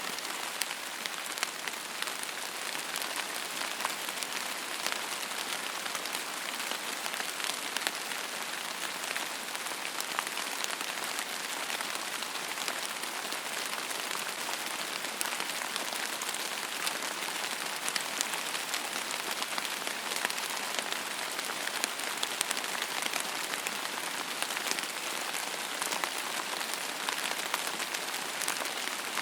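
Steady rain falling on a surface, an even hiss with many sharp individual drop ticks scattered through it.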